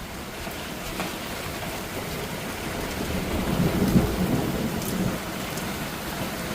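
Heavy monsoon rain pouring down steadily, with a low roll of thunder that builds about three seconds in, is loudest around four seconds and then fades.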